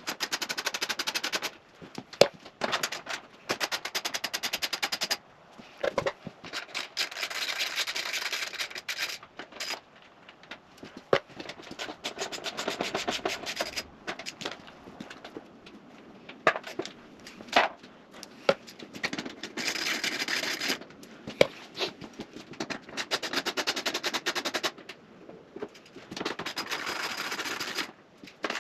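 Socket wrench ratcheting in runs of rapid clicks a few seconds long, with short pauses and the odd knock between runs, as the bolts holding the plastic panels on a dirt bike are undone.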